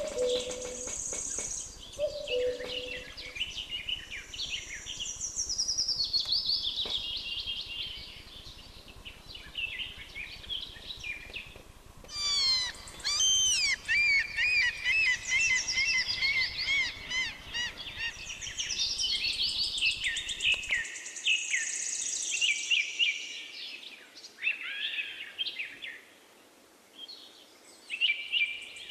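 Many songbirds singing together: a dense mix of high whistles, trills and quick chirps, with two short low notes in the first few seconds. The birdsong changes abruptly about twelve seconds in, and the low background noise under it drops out about eight seconds later.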